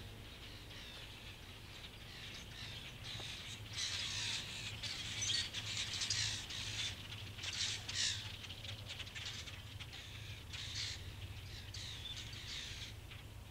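Birds calling: a run of short, harsh calls, at times several a second, starting about three seconds in and dying away near the end, over a faint low steady hum.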